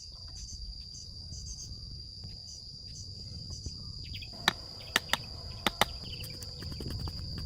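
Insects chirring in one steady high drone, over a low outdoor rumble. About halfway through come five sharp knocks in quick succession, as of a tool or wood striking something hard.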